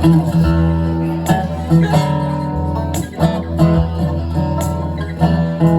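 Live band music in an instrumental passage between sung lines: strummed acoustic guitar over sustained low notes.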